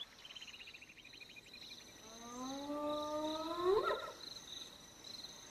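Spotted hyena whoop: one call about two seconds long, rising slowly in pitch and then sweeping sharply up just before it ends. A steady high chirring of insects runs underneath.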